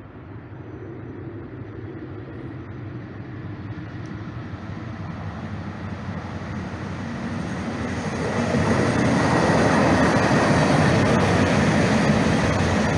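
Passenger train approaching and passing close by. Its rumbling running noise grows steadily louder and is loudest from about eight seconds in.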